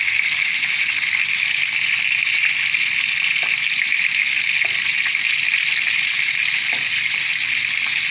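Beef kababs sizzling steadily in hot oil in a frying pan as they are turned with metal tongs, with a few faint taps.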